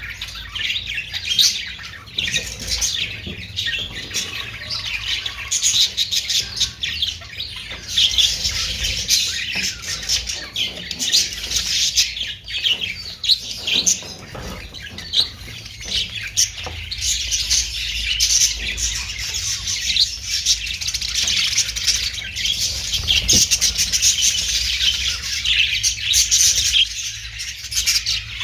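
Budgerigars (Australian parrots) chattering and chirping continuously, a dense stream of many overlapping short, high calls, over a steady low hum.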